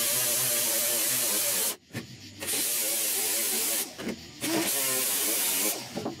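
Welding arc on thin sheet-metal roof panels giving a steady crackling hiss in three runs of about a second and a half each, stopping briefly between them, as the weld is laid in short stitches.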